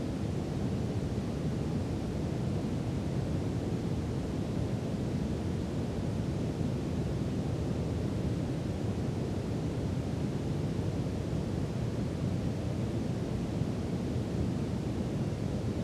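Brown noise: a steady, deep rushing hiss, strongest in the low end and thinning out toward the highs, with no change in level.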